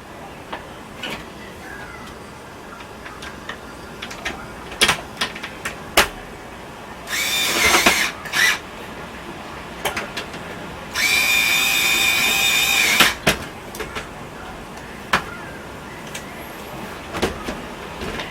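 Power drill running in two short bursts with a steady whine, the second about two seconds long, between scattered knocks and clicks of tools and parts being handled.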